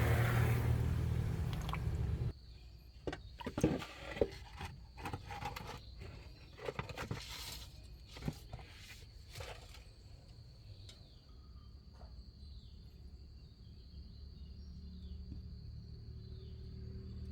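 A car engine running, which cuts off abruptly about two seconds in. Scattered clicks and knocks of handling follow, over a faint steady high whine with a few short falling chirps.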